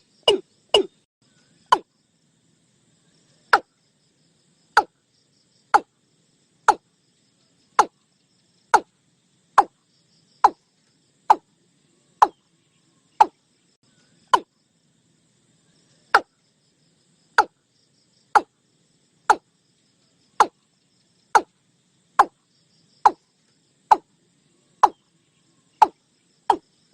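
Watercock (cúm núm) calling: short, hollow knocking notes, a quick run of them in the first second, then single notes about once a second with a couple of short pauses. Faint insects are heard behind it.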